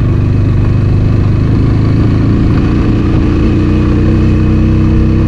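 TVS Apache 200 motorcycle's single-cylinder engine running at a steady pitch while riding a rough gravel track, heard from the rider's position over a constant rush of wind and road noise.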